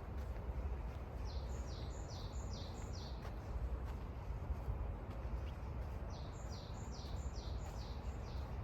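A songbird singing two phrases of about five quick repeated high notes each, the first about a second in and the second near the end, over a steady low rumble.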